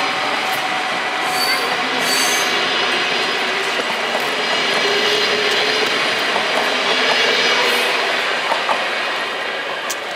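NS double-deck electric passenger train passing, with a steady rush of wheels on rails that eases off near the end as the train pulls away.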